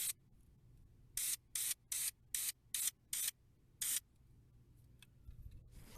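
Aerosol can of Krylon spray paint hissing in about eight short bursts, most coming in quick succession about every 0.4 s, as light touch-up passes over chipped paint.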